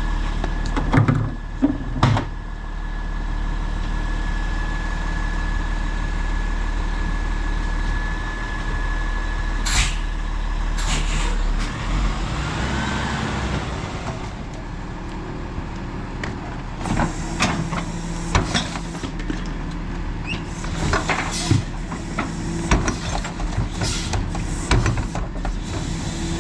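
Autocar ACX rear-loader garbage truck running, with a steady high whine over the engine for the first ten seconds or so. Two short hisses come around ten seconds in. The last third brings a run of clanks and knocks over a steadier engine note.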